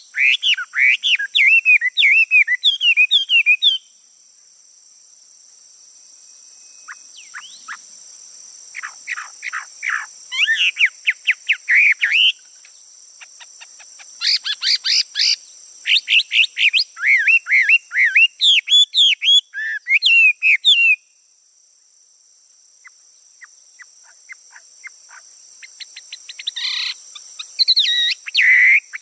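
A male songbird singing in bouts of rapid, varied, warbling phrases, with pauses a few seconds in, around the middle, and again near the end. A steady high-pitched insect drone runs underneath.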